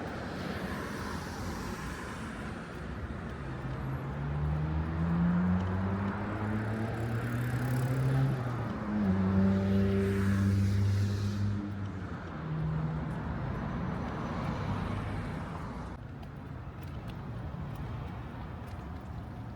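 A motor vehicle passes close by on a city street, its engine note rising as it speeds up, then changing pitch in steps. It is loudest about nine to eleven seconds in and fades away after that, over a steady hum of street traffic.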